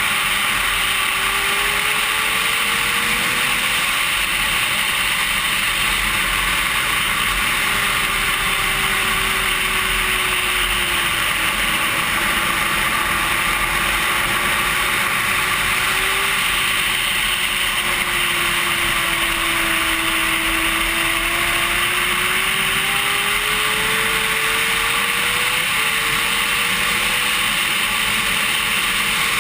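Racing sport bike at speed, heard through a bike-mounted action camera: a steady rush of wind noise covers most of it, with the engine note faintly rising and falling underneath.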